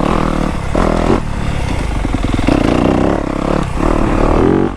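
Yamaha YZ250F four-stroke dirt bike engine revving under throttle while riding, with several brief throttle-offs and the pitch rising again after each, one last rise near the end.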